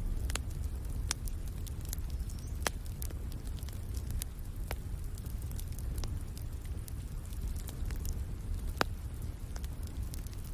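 Wood fire crackling: irregular sharp pops and snaps, a few louder ones about a third of the way in and near the end, over a steady low rumble.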